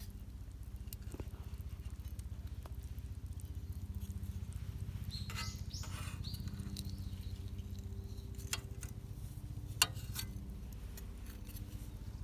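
Campfire burning with a low steady rumble and scattered crackles and pops, one sharper pop about ten seconds in. A brief high squeak comes about five seconds in.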